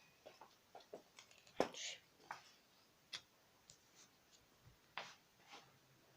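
Scattered light clicks and taps, a dozen or so at uneven intervals, the sharpest about a second and a half in and again about five seconds in, from toy monster trucks being handled.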